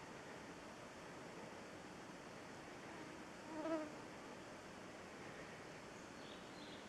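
A flying biting insect buzzes close past the microphone for about half a second midway, its hum swelling and fading, over a faint steady forest hiss.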